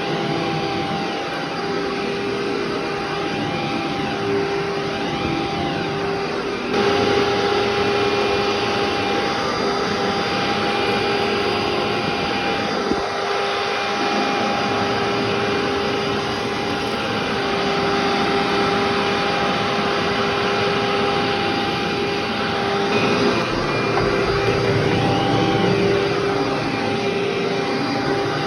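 Vacuum cleaner running continuously over carpet, a steady motor hum and whine over the rush of air; it gets louder about seven seconds in.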